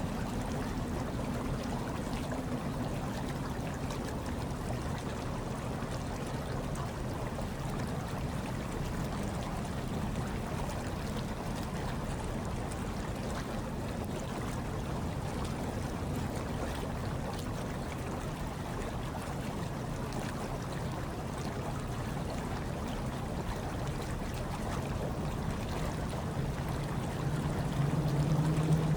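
Hot tub water bubbling and churning steadily over a low hum, growing a little louder near the end.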